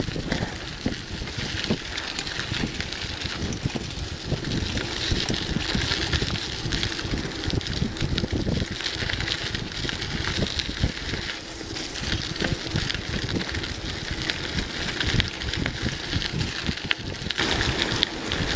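Wind buffeting the microphone of a moving bicycle rider, a gusty low rumble over a steady hiss.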